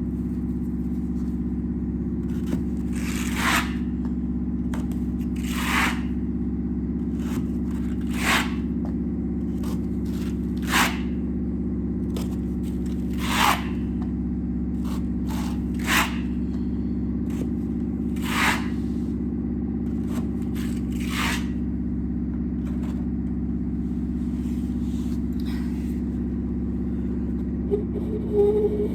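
A drywall knife scraping joint compound across a wall in separate strokes, about one every two and a half seconds, over the steady low drone of a washing machine on its spin cycle.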